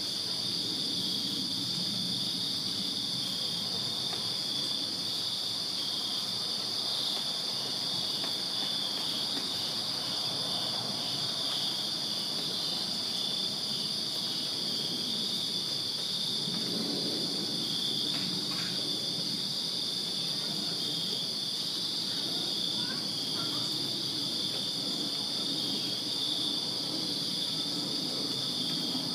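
Crickets chirping in a dense, continuous night chorus: several high, steady trilling pitches layered over one another without a break. A faint low sound rises under the chorus for a few seconds around the middle.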